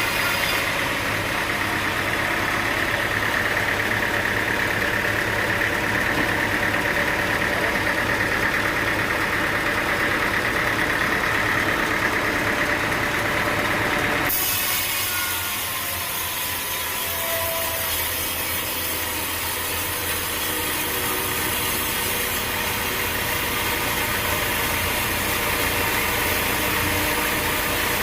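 Sawmill blade cutting through a large log: a steady, loud rasping saw noise over a running engine. About halfway through the sound changes abruptly and turns brighter and hissier.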